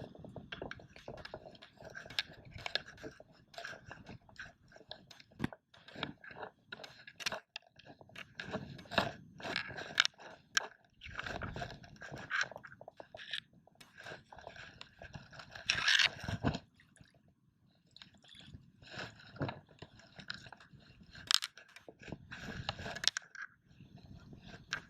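Irregular crunching and scraping in wet beach sand, from digging for razor clams, with a few sharper clicks along the way.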